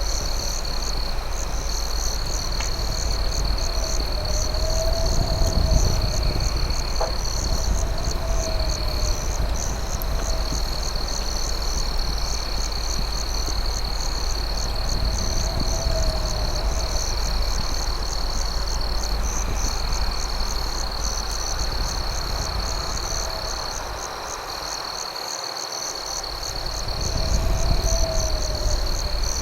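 Night insect and frog chorus: crickets keep up a steady high trill with a faster pulsing chirp above it, while frogs give a short rising-and-falling call every few seconds over a low steady rumble. A couple of faint crackles from the campfire come through about 3 and 7 seconds in.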